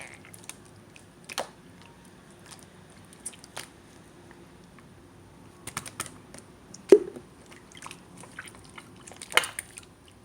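Slime being squeezed and pressed by hand, giving scattered sharp clicks and pops. The loudest pop comes about seven seconds in, and a quick cluster follows near the end.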